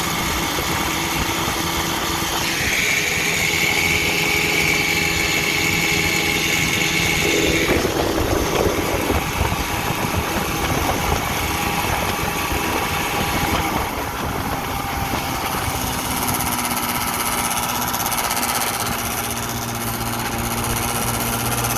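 A 1959 Evinrude Golden Jubilee Sportwin 10 hp two-cylinder two-stroke outboard motor running under way. Its note shifts several times as the speed changes.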